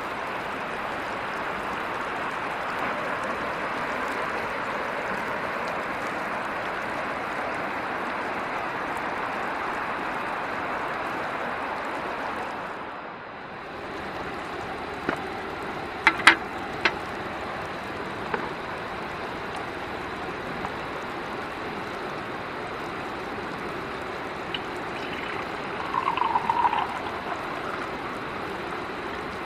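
River water flowing steadily in a continuous rush, its sound shifting briefly about halfway through, with a few sharp clicks soon after.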